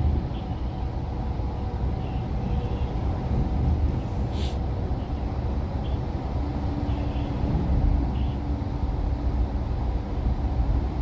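Iveco gas truck running, a steady low engine and road rumble, with one short hiss about four seconds in.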